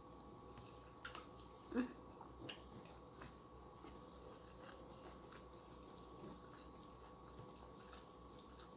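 Faint eating sounds from someone eating rice and chicken by hand: soft chewing and scattered small mouth clicks over a low steady room hum, the loudest click about two seconds in.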